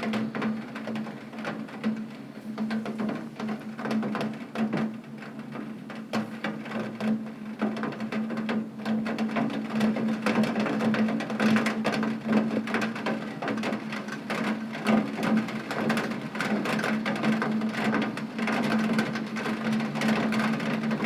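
Heavy rain hitting a window pane: a dense, irregular patter of drops on the glass, over a steady low hum.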